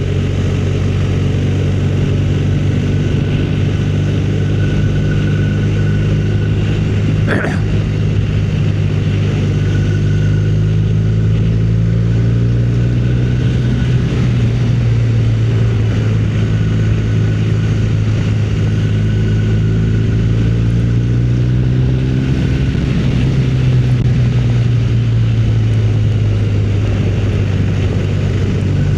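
Motorcycle engine running under way at a steady cruise, its note rising and falling gently with the throttle.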